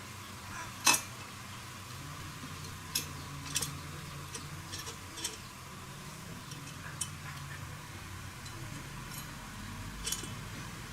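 Irregular light metallic clicks and clinks of hand tools and small motorbike parts being handled, the sharpest about a second in, over a faint low hum.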